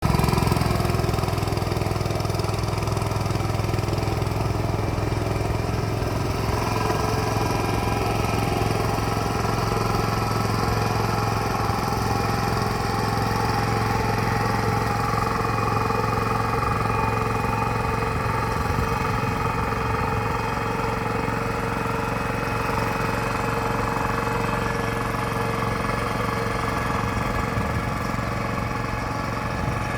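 Mini tractor's engine running steadily at an even, unchanging speed.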